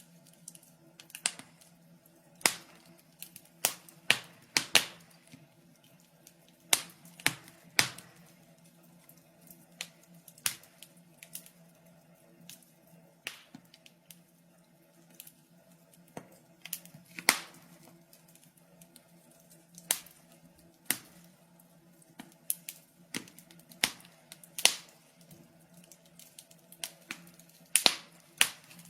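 Wood fire crackling: sharp, irregular pops and snaps, sometimes two in quick succession, over a faint steady hum.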